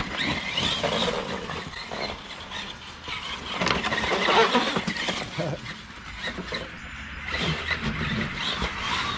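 Battery-electric RC monster truck (Axial SMT10 Grave Digger on a 2S LiPo) driving over wet gravel, its motor and tyres swelling louder about four seconds in and again near the end.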